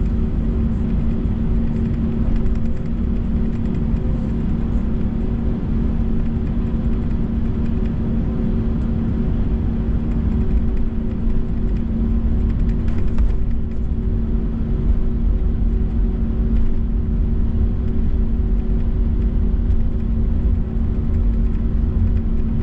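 Steady low rumble and hum of an Airbus A321's jet engines at low power, heard from inside the cabin while the airliner taxis before takeoff.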